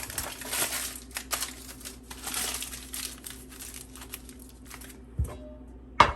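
Aluminum foil crinkling and crackling as it is wrapped and pressed around a potato, dying down after about three seconds. A low thud comes about five seconds in, and a sharp knock near the end.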